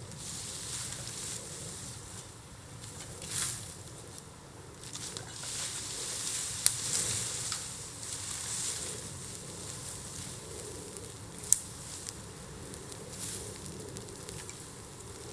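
Bamboo bonfire burning with a steady hissing crackle that swells and fades, and two sharp pops, one near the middle and a louder one about three-quarters through.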